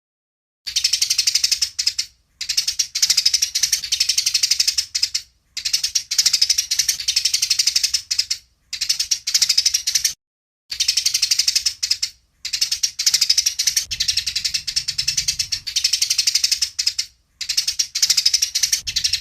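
Eurasian tree sparrows giving a fast, high-pitched fighting chatter of rapid chirps, in bursts of one to a few seconds broken by short silent gaps.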